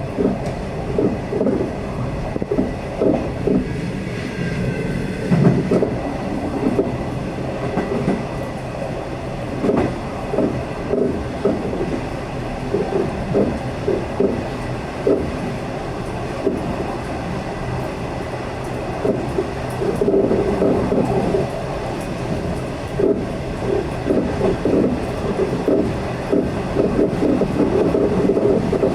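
V/Line loco-hauled passenger train running at speed, with a steady rumble and irregular clattering knocks and rattles from the wheels on the track.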